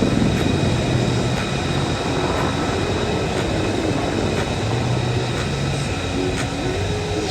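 Large military transport helicopter flying a low display pass: a steady, loud rotor and engine roar with a thin whine from its turbines.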